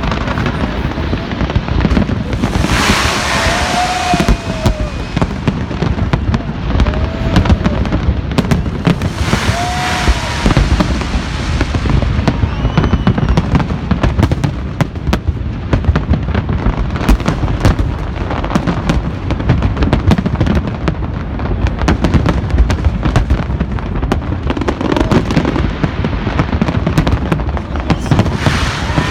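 Big fireworks display in full barrage: a dense, continuous run of bangs and crackles with no let-up, and brief hissing bursts a few seconds in and again around ten seconds.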